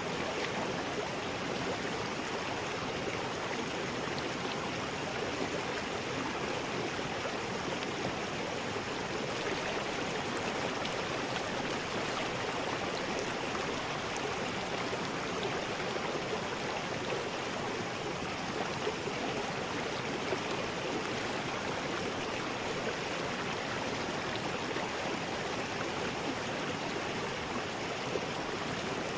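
River rapids: water rushing over rocks in a steady, unbroken roar.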